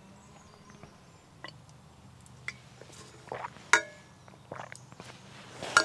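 Cooking gear being handled: scattered light knocks and clicks, with one sharp ringing clink a little after halfway.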